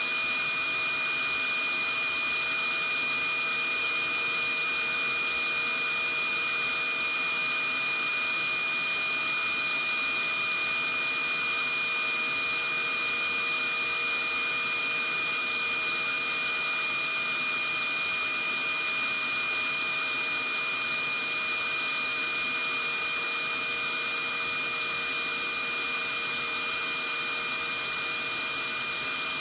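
Vacuum cleaner running steadily and without change: an even hiss with a steady high whine.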